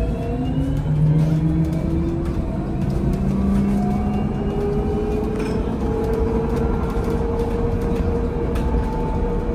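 VMZ Avangard trolleybus accelerating: its electric traction drive whines, rising in pitch in several steps and levelling off near the end, over steady road and cabin rumble.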